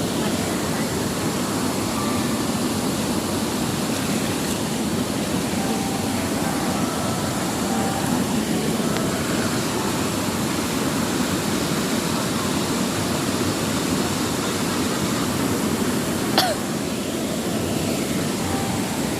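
Waterfall: a steady rush of falling water, with one short sharp click about sixteen seconds in.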